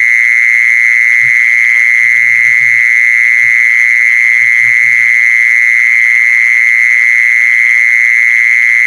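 A continuous, loud high-pitched trill that holds one steady pitch, rapidly pulsing throughout. It is the calling sound used to lure a female khmol. A few faint, short low croaks sound beneath it.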